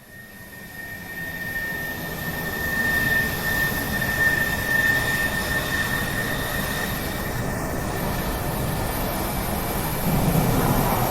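Passenger jet's engines running: a broad rush with a steady high whine, growing louder over the first few seconds and then holding steady.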